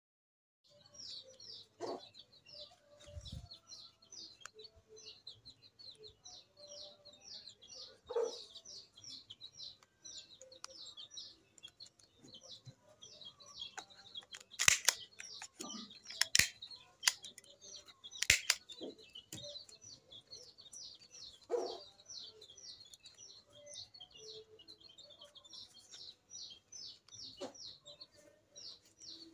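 A small bird chirping in a fast, steady series, about three to four high chirps a second. Three sharp clicks from a hand stapler pinning banana-leaf pieces together come close together in the middle, and there is some softer knocking from handling the leaves.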